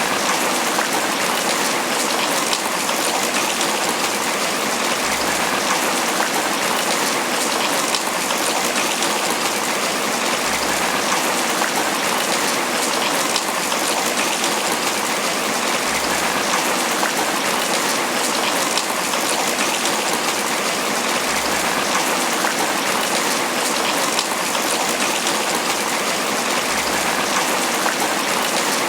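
Tropical rain falling steadily on banana leaves: a dense, even patter of drops with no let-up.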